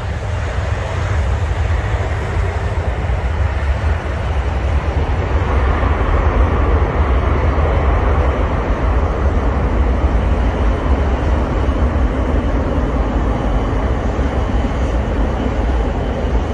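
Boeing 747-400 freighter's jet engines running, a continuous noise with a heavy low rumble that grows louder about five seconds in.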